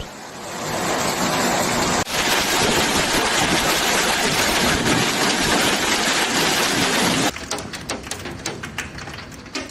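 Heavy downpour hammering on surfaces as a dense, even hiss. About seven seconds in it gives way to a clatter of separate hits that fades away.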